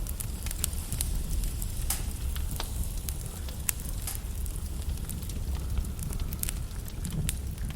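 Logs burning in a fireplace, crackling with many sharp, irregular pops and snaps over a steady low rumble of the flames.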